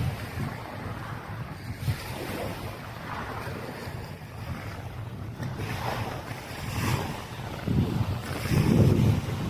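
Wind buffeting the microphone over the wash of surf, with a louder rumbling gust near the end.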